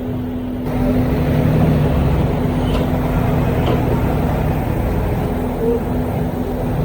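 Diesel engine of heavy earthmoving machinery running steadily, getting louder about a second in.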